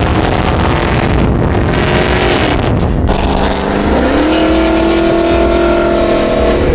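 Car engine revving: its pitch sags a couple of seconds in, then climbs about four seconds in and holds at the higher revs.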